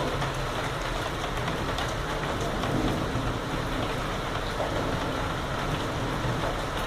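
Heavy rain falling steadily, a dense even hiss of rain with scattered drop ticks.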